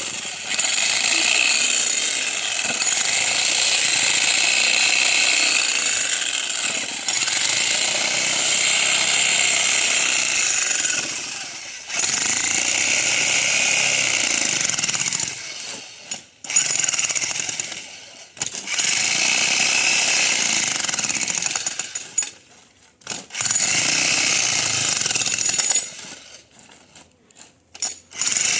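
Jackhammer (demolition breaker) hammering steadily in long runs. It stops briefly a few times, more often near the end.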